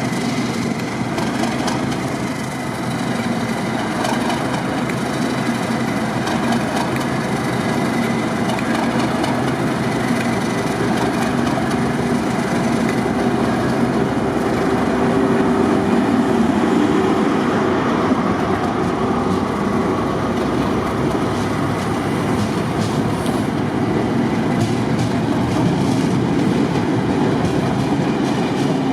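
A train running past on the rails, a steady loud rumble of wheels on track with some clicking from the rail joints, swelling slightly around the middle.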